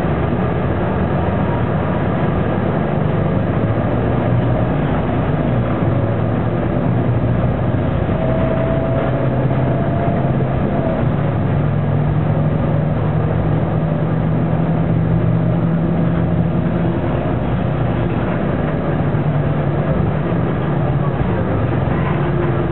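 Detroit Diesel Series 50 diesel engine of a Neoplan AN460 articulated bus running under way, heard from the rear of the passenger cabin. A steady drone whose pitch shifts up and down as the bus changes speed.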